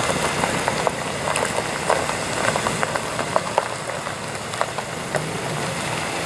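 A car engine idling steadily, with many short scattered clicks and ticks over a steady hiss.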